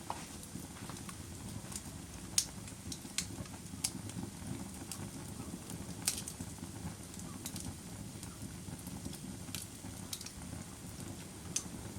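Campfire crackling: scattered sharp pops and snaps at irregular intervals over a steady low rumble of the burning fire.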